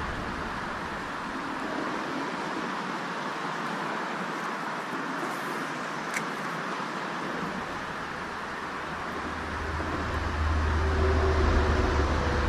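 Steady rushing outdoor noise, with one sharp click near the middle and a low rumble that swells about ten seconds in.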